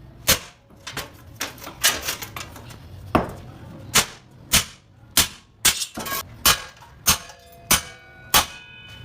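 A hammer striking sheet metal, about fifteen sharp blows at an uneven one to two a second; the later blows leave a brief metallic ring.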